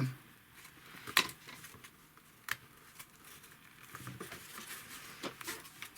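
Small clicks and rustles of thin pre-cut wooden pieces being pushed out of a kit sheet, with one sharp snap about a second in and a lighter one a little later.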